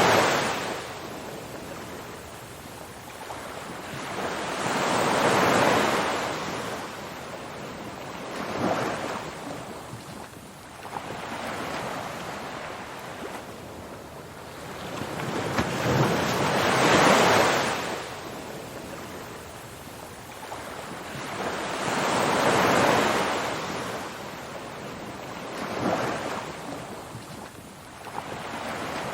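Ocean surf: waves breaking and washing in, a rushing hiss that swells and ebbs every few seconds, some surges much stronger than others.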